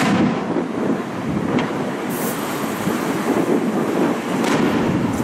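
Aerial firework shells bursting with a few dull booms, over a steady rumble of wind and passing road traffic.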